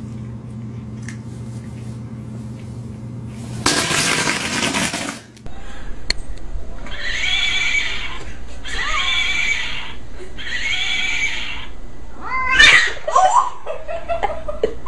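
A cat yowling three times in a row, each call about a second long. Before the calls there is a steady low hum, then a brief loud rush of noise about four seconds in.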